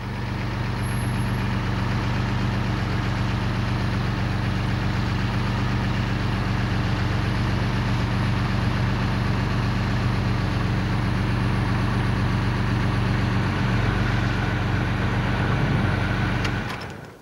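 Vintage convertible's engine idling steadily, then switched off with the ignition key near the end, the sound dying away within about half a second.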